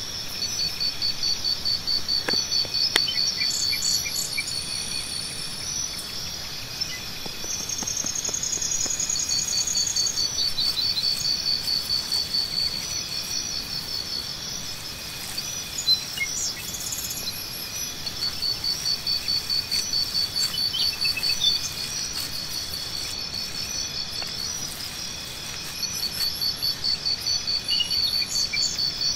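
Several insects chirping in high, rapidly pulsed trills at a few different pitches. The trills come in long trains that start and stop, overlapping one another, with an occasional faint bird chirp.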